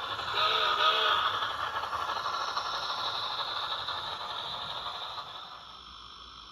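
Rivarossi HO scale steam locomotive running on model track, its old high-torque motor whirring and the mechanism rattling, until the sound dies down about five and a half seconds in. The owner calls the running not the smoothest.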